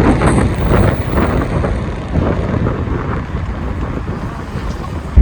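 Wind rushing over the microphone along with vehicle and road noise, gradually fading.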